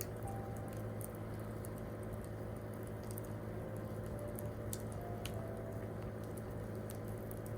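Wood campfire crackling, with sharp irregular pops over a steady low hum.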